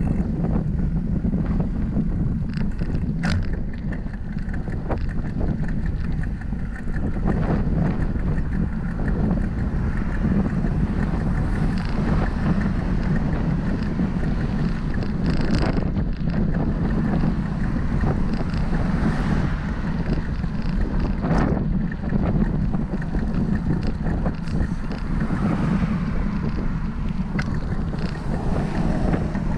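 Wind buffeting the microphone of a camera riding along on a moving bicycle: a steady low rumble, with a few short clicks and brief swells.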